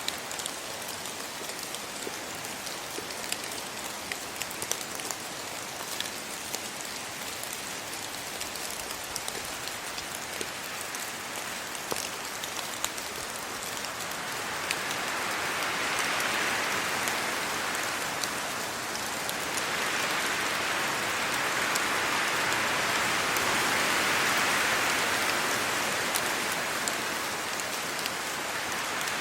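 Steady rain falling on trees and the ground, with many separate drop hits. From about halfway through, the rush swells louder twice for several seconds each, as gusts of wind move through the trees and leaves.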